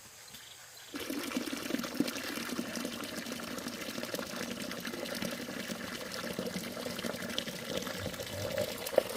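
Water running or pouring in a steady stream, starting suddenly about a second in.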